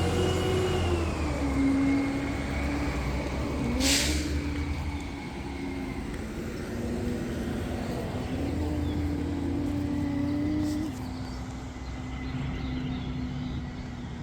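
Garbage truck engine running, its pitch rising and falling as it revs up and settles, with a short burst of air hiss about four seconds in.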